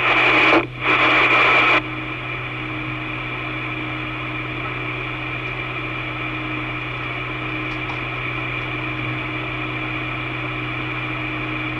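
Two-way radio static: a loud hiss from an open transmission that cuts off about two seconds in, leaving a steady, quieter hiss and hum from the radio.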